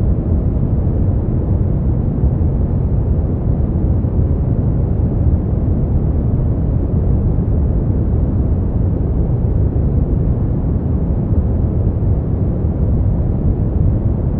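Steady generated sleep-aid noise, constant and unchanging, deep and muffled, with most of its weight in the low rumble and no hiss at the top.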